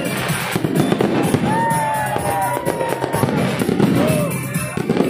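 Aerial fireworks display: shells bursting and crackling in rapid succession.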